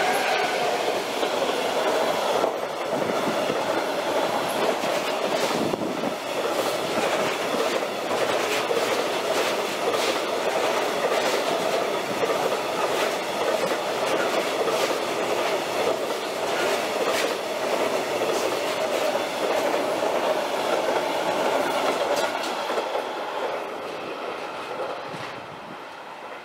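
A long train passing at speed, its wheels clacking over rail joints in an uneven series of clicks, then fading away near the end.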